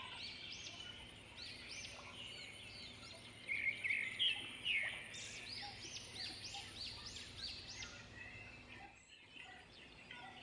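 Birds chirping: many short, high-pitched arching calls, repeated one after another, louder and busier about four seconds in.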